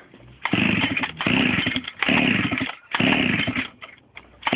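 Mini moto's small two-stroke engine running with its exhaust removed, blipped in four short, loud bursts of revs about a second apart, with a fifth starting near the end.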